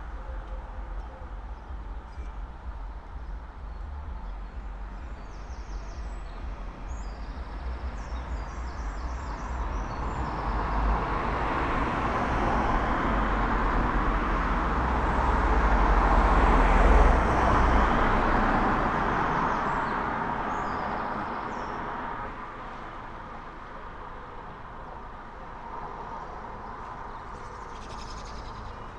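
A road vehicle passes by: its tyre and engine noise builds slowly, is loudest about seventeen seconds in, then fades away. Birds chirp in the background.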